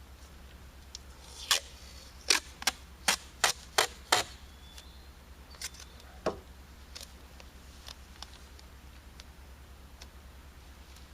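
A quick run of about seven sharp clicks or knocks, two or three a second, followed by two fainter ones, over a steady low electrical hum.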